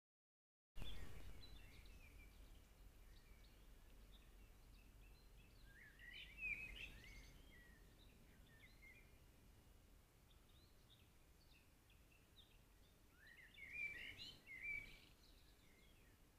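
Faint songbird twittering, in two short bursts of quick chirps about six seconds in and again near the end, over a low, steady background rumble from a trail camera's microphone.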